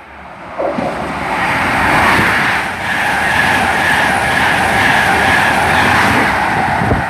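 CrossCountry InterCity 125 high-speed train (HST) passing through a station at speed without stopping. Its Class 43 diesel power cars and coaches rush by on the rails, coming up loud about half a second in and holding steady. A steady high whine runs over the noise.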